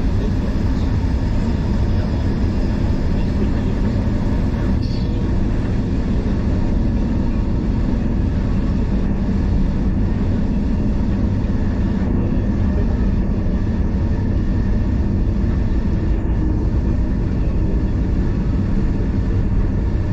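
Heritage train running: a loud, steady low rumble of wheels and running gear that holds even throughout.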